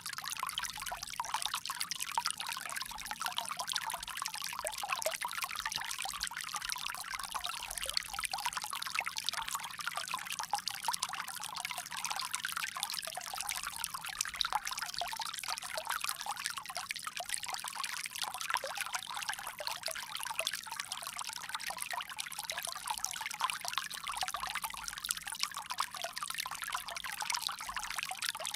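Water flowing from a bamboo spout and pouring steadily, a continuous trickle and splash without pauses.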